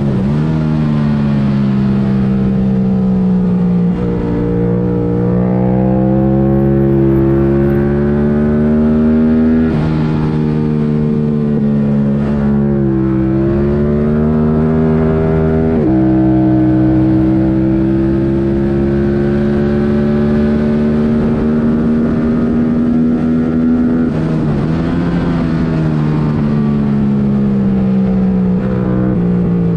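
A 2022 Yamaha R7's 689 cc parallel-twin engine running through an aftermarket MIVV Delta Race exhaust with the airbox removed, revved hard on track. The engine note climbs through the revs and drops sharply at gear changes several times, with dips where it slows for corners.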